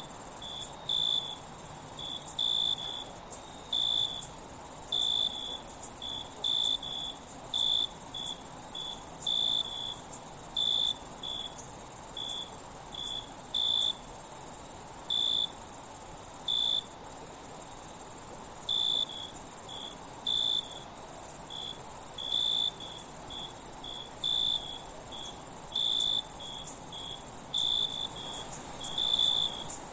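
Night insect chorus of crickets: a steady high-pitched trill throughout, with short chirps repeating irregularly about once or twice a second. The sound briefly cuts out a few times.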